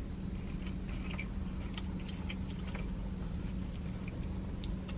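A person biting into and chewing a cheeseburger, with small soft clicks of mouth noise scattered throughout, over a steady low hum.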